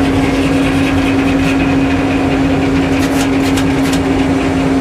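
Sawmill engine running steadily, a constant hum with a strong low drone, with a few short hisses about three seconds in.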